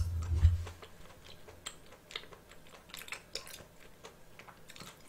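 Close-miked chewing: faint, scattered mouth clicks and smacks, after a low thump in the first half-second.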